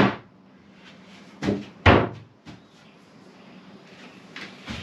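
Three wooden knocks, the first right at the start and two more close together about a second and a half in, as a wooden floor panel is set and knocked into place.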